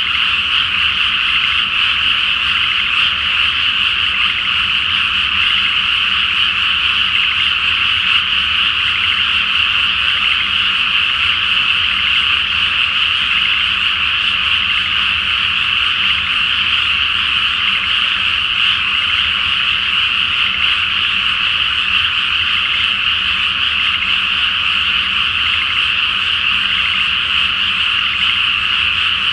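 Dense chorus of many frogs in a flooded rice paddy, countless overlapping calls merging into one steady, unbroken din.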